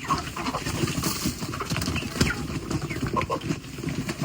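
A flock of young chickens at feeding time: a few short, scattered calls over a busy patter of small taps.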